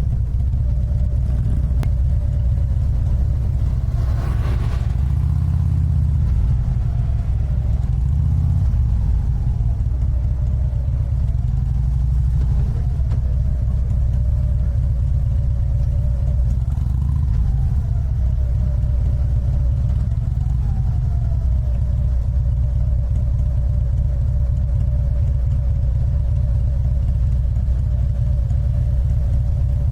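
Harley-Davidson Ultra Limited's V-twin engine running under way, a steady low rumble whose note rises and dips a few times between about 8 and 21 seconds in. A single brief knock about four seconds in.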